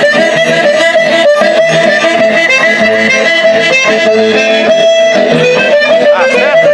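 Instrumental folk music led by an eight-bass button accordion (sanfona de oito baixos) holding long tones, with plucked guitar strings.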